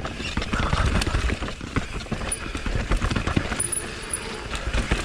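Mountain bike descending a rough dirt trail: tyres rumbling over the ground, with frequent knocks and rattles from the bike over bumps, and wind on the microphone.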